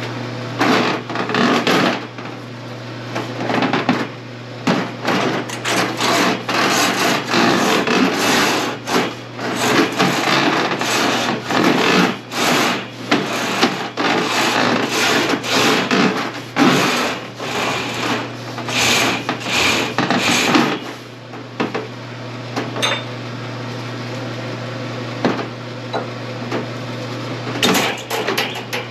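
Drain snake cable scraping and rattling in irregular bursts, over a steady low hum. The bursts thin out about 21 seconds in and pick up again near the end.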